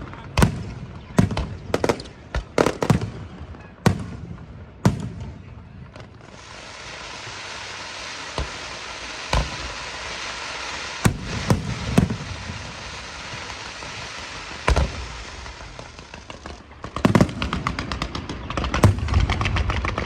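Aerial fireworks shells bursting in a string of sharp bangs, about one a second. From about six seconds in, a long crackling hiss from crackle-effect shells takes over, with a few bangs through it. Near the end the bangs and crackle come thick and fast.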